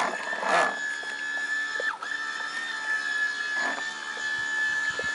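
A radio-controlled model boat's motor whining at a steady high pitch, cutting out briefly about two seconds in. A few short voice-like calls break in over it.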